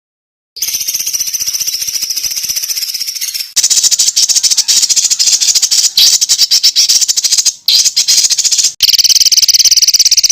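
Songbird 'tembakan' calls for training cage birds: dense, harsh, rapid-fire rattling trills, high-pitched, in several spliced recordings that start about half a second in and switch abruptly a few times.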